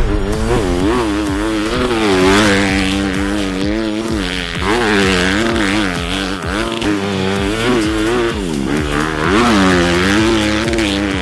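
Dirt bike engine revving up and down over and over, its pitch rising and falling every second or so.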